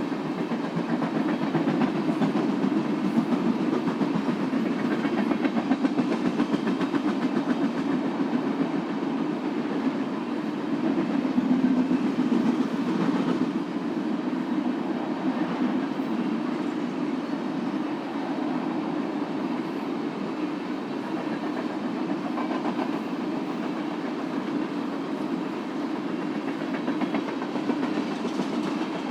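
Freight train cars rolling past, a steady rolling noise with rapid wheel clatter over the rails, a little louder in the first half.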